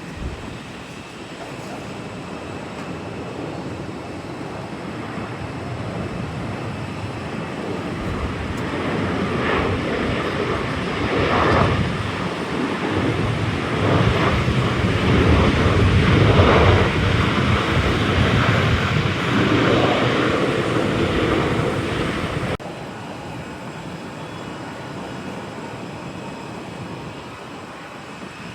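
Airliner passing, its engine noise building to a loud rumble with wind buffeting the microphone, then cutting off suddenly about three-quarters of the way through, leaving a quieter steady wind noise.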